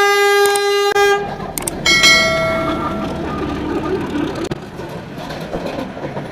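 Train horn sounding a long steady blast that ends about a second in, then a second, shorter blast at a higher pitch, followed by the noise of the train running on the rails.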